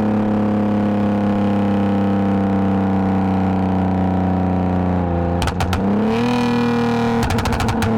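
2010 Lexus IS250 AWD's V6 running through an aftermarket full exhaust with valved mufflers, a steady drone at cruise. About five seconds in there are a few sharp clicks, then the engine's pitch rises and holds a little higher, with another quick run of clicks near the end.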